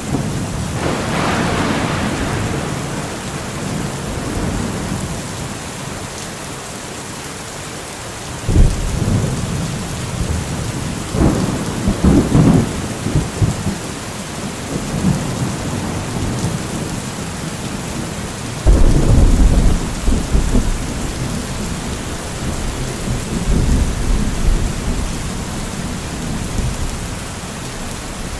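Steady rain with thunder. Rumbles come in about eight seconds in and again around twelve seconds. The loudest, a sudden clap about two-thirds of the way through, rolls on for several seconds.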